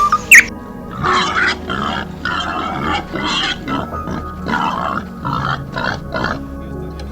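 An animal giving a run of short, rough calls, about two a second, starting about a second in and stopping shortly before the end.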